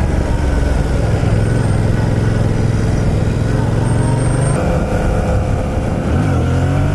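Yamaha MT-07's parallel-twin engine pulling under throttle, holding steady revs for a few seconds, then the revs drop about five seconds in and climb again near the end.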